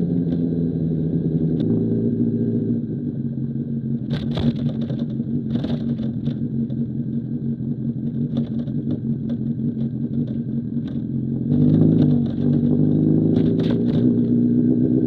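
2005 Honda CBR1000RR's inline-four engine through an SC Project CR-T exhaust, running at a steady engine speed that drops a little about two and a half seconds in. A few sharp clicks come through the engine sound, and the engine picks up again about twelve seconds in.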